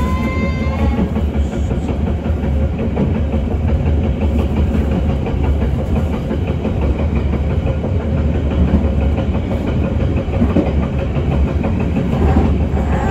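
Passenger train running at speed over the rails, a steady heavy rumble with faint wheel clatter. A high pitched tone fades out in the first second.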